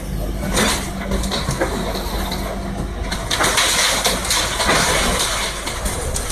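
Excavator's diesel engine running steadily, with a harsher mechanical noise coming in about three seconds in.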